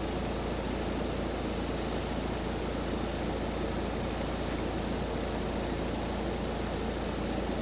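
Steady rushing air from a running fan in a Trane air-conditioning system, with a low electrical hum underneath.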